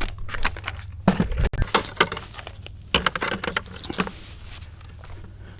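A quick run of light clinks and knocks from hard objects being handled, dying away after about four seconds.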